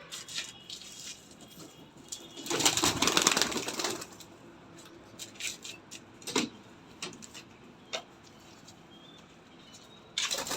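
Pigeons moving about: a loud burst of wing flapping about two and a half seconds in, lasting over a second, followed by a few short, sharp taps.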